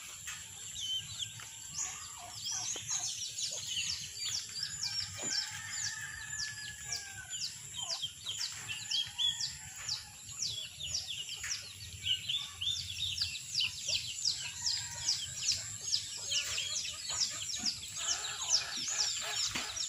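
Birds calling: a fast, continuous string of short, high, falling chirps, several a second, with a few lower calls among them.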